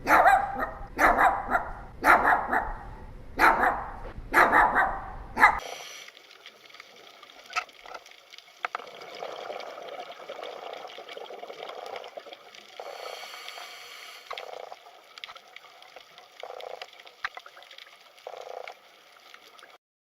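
A dog barking, about six loud barks roughly a second apart, stopping after about five seconds. A quieter stretch of faint background noise with a few soft short sounds follows.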